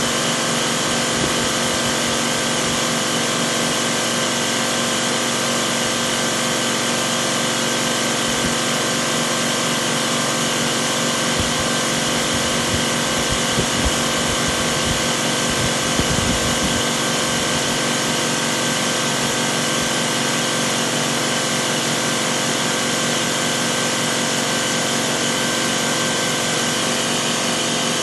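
Washing machine running with a steady mechanical whine made of several held tones, with a few low knocks around the middle.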